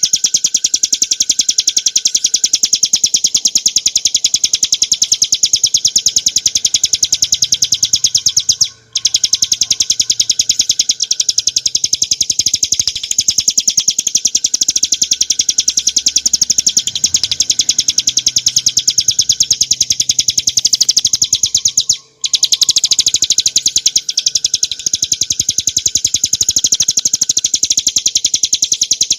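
Bar-winged prinia (ciblek gunung) singing a fast, continuous run of high, sharp notes. The song breaks off briefly twice.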